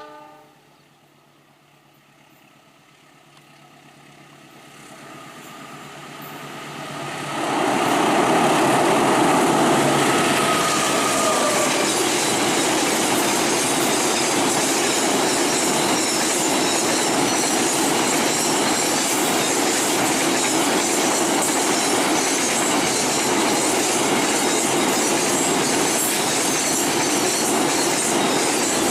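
A conventional train speeding past: its rumble builds for several seconds, then turns into a sudden loud rush about seven seconds in as it arrives. A pair of tones dips slightly as the locomotive goes by, and then the cars run past with steady wheel clatter on the rails.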